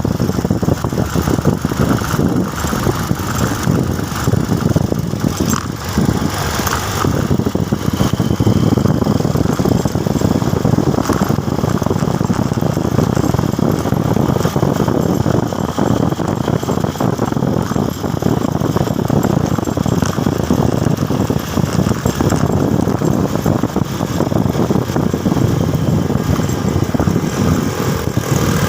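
Motorcycle engine running steadily while riding, under a continuous rushing noise.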